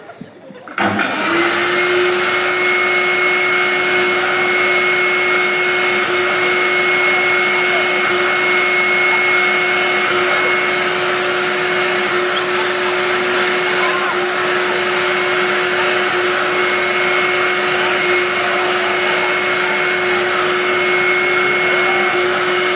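Vacuum cleaner switched on about a second in and running steadily, a constant rushing noise with a steady whine.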